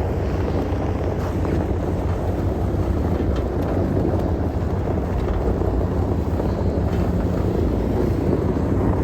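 Toyota Tundra pickup crawling slowly in four-wheel-drive low while towing a travel trailer: a steady low drone of engine and drivetrain.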